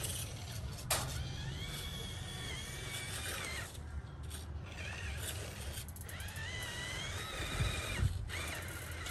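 Radio-controlled off-road truck driving over rough ground: its electric motor and gears whine, rising and falling in pitch with the throttle, over a low rumble from the drivetrain and terrain, with a few sharp knocks as it hits obstacles.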